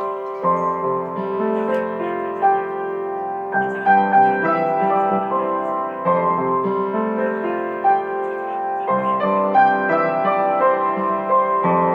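Background music: gentle piano playing, individual notes ringing over held bass notes.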